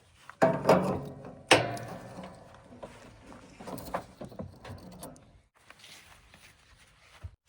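Two loud metallic clanks with ringing, about half a second and a second and a half in, followed by smaller knocks and rattles from heavy machinery working.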